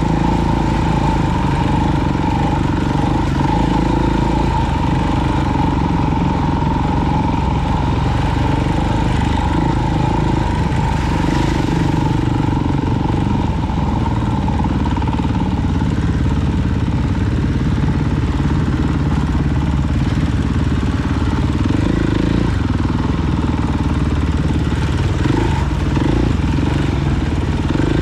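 Off-road vehicle engine running steadily at a fairly even speed, loud and close, with no big revs or stops.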